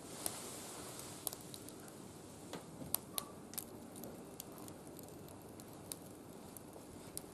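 Small fire burning in a barbecue grill, crackling with irregular sharp snaps over a faint steady hiss.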